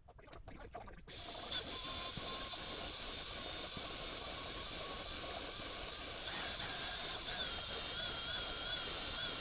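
A motorized shop tool switches on about a second in and runs steadily with a hiss and a high whine that wavers slightly later on.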